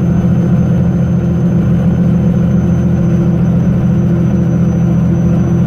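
Cat C15 diesel engine of a 2001 Freightliner truck running steadily under way, heard from inside the cab as a loud, even low drone.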